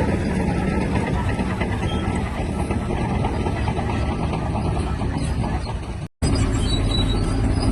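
Shantui DH17-C3 bulldozer's diesel engine running steadily while working. The sound cuts out completely for a split second about six seconds in, then carries on as before.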